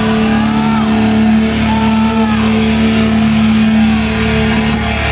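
Heavy metal band playing live, distorted electric guitars holding a ringing chord, with two cymbal crashes near the end.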